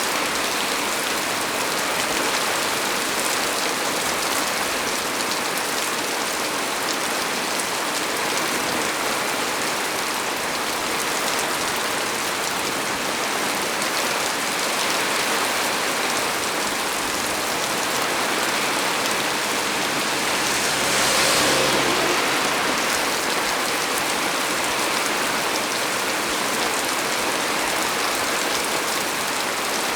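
Heavy rain falling steadily on a small tree's leaves, an even hiss with no breaks. About two-thirds of the way through it swells briefly louder, with a faint low rumble underneath.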